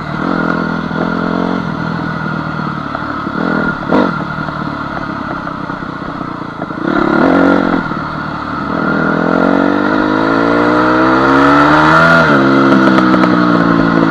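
Honda CR250 two-stroke dirt bike engine under way on a trail, its pitch rising and falling with the throttle, then climbing steadily for about three seconds near the end before dropping off. A couple of short knocks from the bike over rough ground come a few seconds in.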